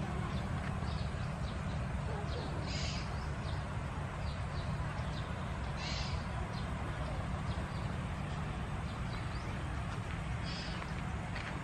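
Birds calling in a wetland, one call repeating about every three seconds with fainter short calls between, over a steady low rumble.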